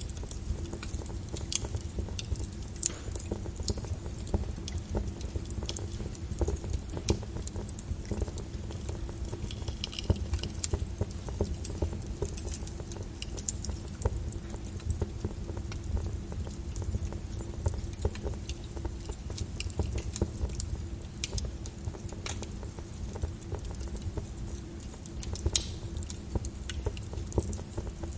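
Wood fire in a fireplace crackling: a steady low rumble of burning with irregular sharp pops and snaps, one louder pop near the end.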